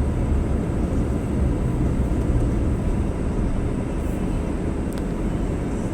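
Steady low rumble of a car's engine and tyres heard from inside the cabin while driving slowly downhill.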